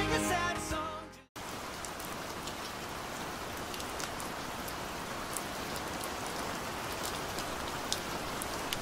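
Music fading out over the first second, then a moment of silence and steady rainfall, an even hiss with scattered drop ticks.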